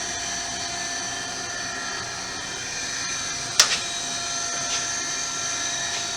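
Brown & Sharpe 814U universal grinder running: a steady whine from its motors and spindle drive, made of several high, even tones. A single sharp click sounds a little past halfway, with a couple of faint ticks after it.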